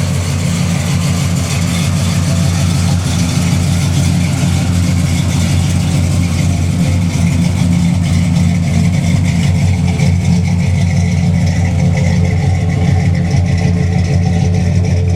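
1966 Chevelle SS 396's big-block V8 idling steadily through its exhaust pipes, at an even pitch with no revving.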